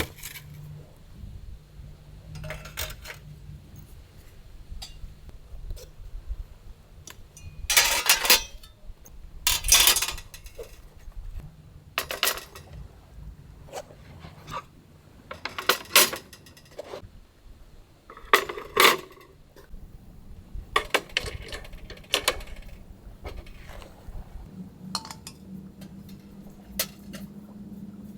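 Metal camp gear being handled: a string of separate clinks and clatters, about a dozen spread out, some with a brief ring, over a faint steady low hum.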